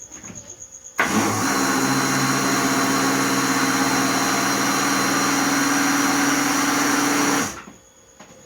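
Kitchen blender running a batter of milk, eggs, margarine and flour for pizza dough. The motor switches on suddenly about a second in, runs at a steady speed for about six seconds and switches off near the end.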